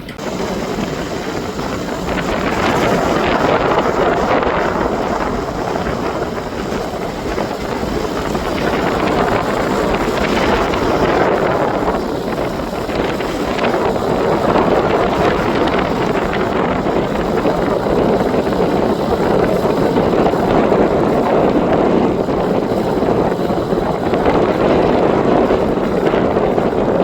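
Wind buffeting the microphone in gusts that swell and ease every few seconds, over the steady low hum of a sailboat's engine running under power.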